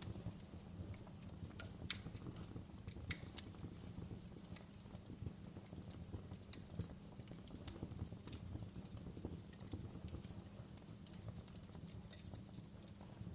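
Wood fire crackling in a fireplace: scattered sharp pops and snaps over a low, steady rumble, with a couple of louder pops about two and three and a half seconds in.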